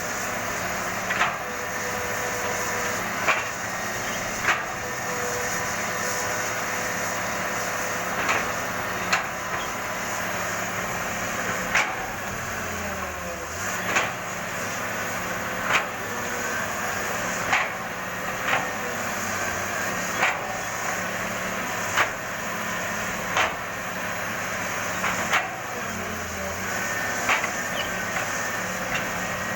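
Caterpillar 320 excavator's diesel engine running steadily, with sharp knocks or clanks every one to two seconds.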